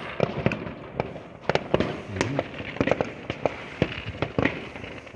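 Fireworks and firecrackers going off in many sharp, irregular bangs of different loudness, some near and some farther off, over a constant crackling background.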